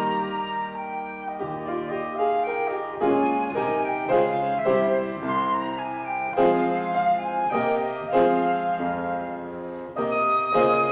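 Instrumental music: a flute playing a melody of held notes over piano accompaniment.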